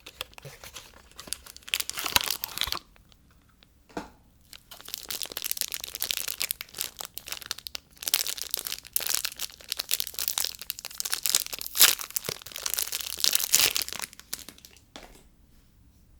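Soap packaging being unwrapped by hand: the wrapper crinkling and tearing in long stretches, with a brief pause and a single tap about four seconds in, stopping shortly before the end.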